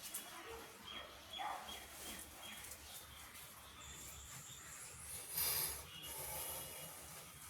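Birds chirping in short, repeated calls, some sweeping downward. A thin high steady tone holds for about a second near the middle, and a brief rustling burst comes about five and a half seconds in.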